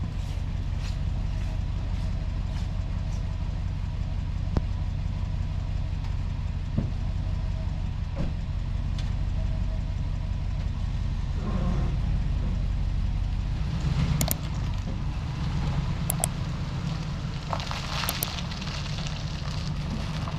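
A steady low motor hum, with scattered clicks and a few louder knocks and rattles in the second half.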